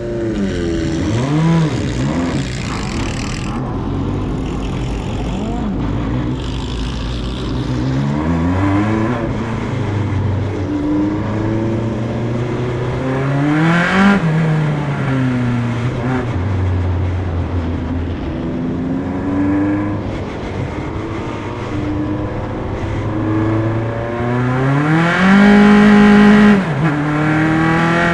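Single-seater race car engine heard from onboard on a pace lap, its revs climbing and dropping repeatedly with gear changes and lifts. It reaches a brief high peak about halfway through and its loudest, highest held run near the end.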